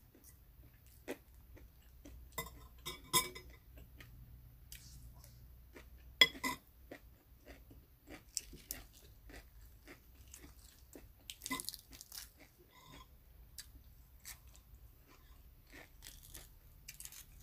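A person chewing and crunching food close to the microphone: scattered crisp crunches, with louder clusters about three, six and eleven seconds in.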